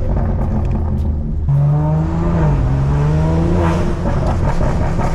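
BMW S58 twin-turbo inline-six through a full stainless Valvetronic exhaust, heard from inside the car, accelerating hard. The revs climb, drop at an upshift, then climb again, after a few sharp exhaust pops from the burble setting.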